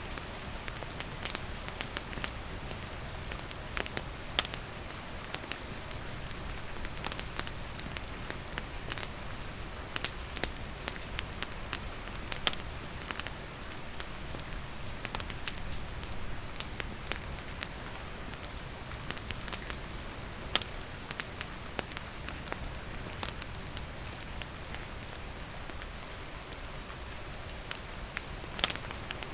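Steady rain falling with a campfire crackling, its sharp pops and snaps scattered irregularly over the continuous hiss of the rain.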